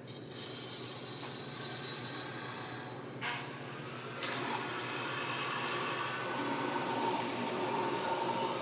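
An electric power tool's motor running with a loud hissing whir. It eases off about two seconds in, spins back up about three seconds in and runs on steadily, with a single click about a second later.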